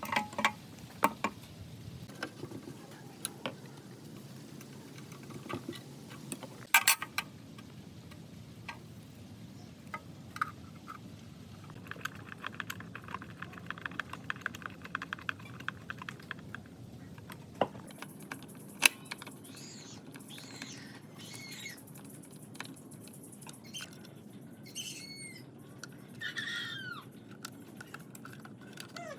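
Scattered light clicks and knocks, with a short buzzy rasp partway through. Birds call with repeated gliding notes in the second half.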